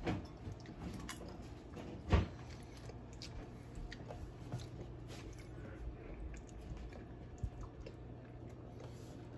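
A person chewing popcorn: soft crunches, with one louder bite about two seconds in.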